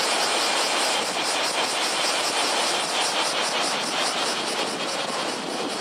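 Typhoon surf crashing on the beach, a steady noisy rush, with a fast, even pulsing hiss high up.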